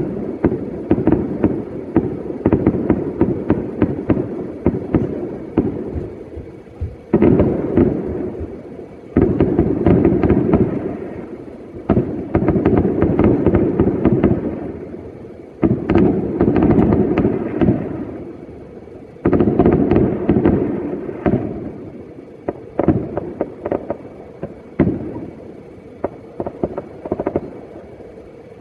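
New Year fireworks going off: several heavy bangs a few seconds apart, each trailing into dense crackling, with rapid popping in between.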